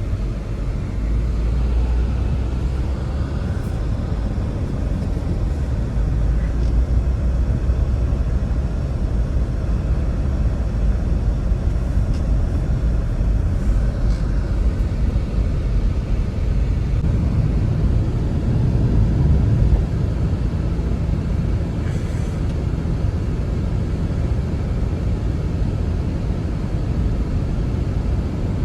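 Strong blizzard wind blowing steadily, a deep, heavy rumble with slight swells and a few faint ticks over it.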